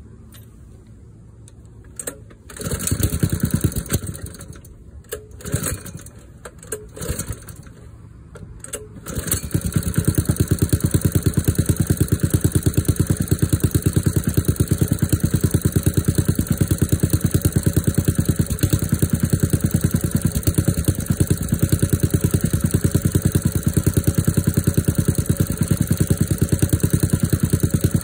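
Engine cold started in freezing weather: it is cranked in several short tries, catches about nine seconds in, and settles into a steady idle with a fast, even pulse.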